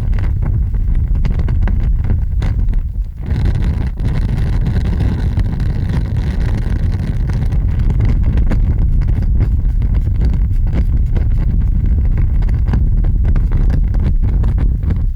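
Large fire burning: a deep, steady rumble with scattered crackles. It dips briefly about three seconds in, and a brighter hiss joins for the next few seconds.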